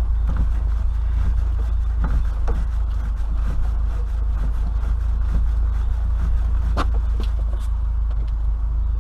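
Austin Maxi's body being rocked and bounced on its Hydrolastic suspension to settle the ride height: irregular knocks and creaks from the car, the sharpest about seven seconds in, over a steady low rumble.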